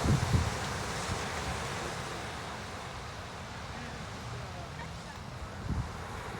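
Wind buffeting the microphone over a steady rushing noise, with louder gusts just after the start and again near the end.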